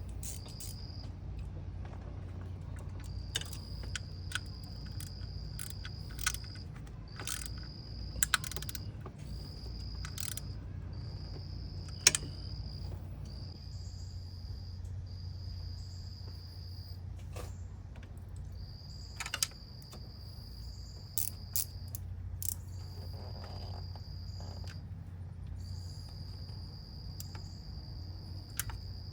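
Insect trilling: one steady high tone in stretches of a few seconds with short breaks between them. Over it come scattered sharp clicks and clinks of tools on metal, the loudest about eight and twelve seconds in, with a low steady hum beneath.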